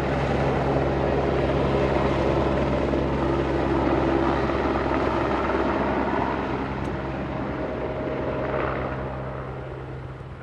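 Helicopter flying with a steady rotor and engine noise, fading away over the last few seconds.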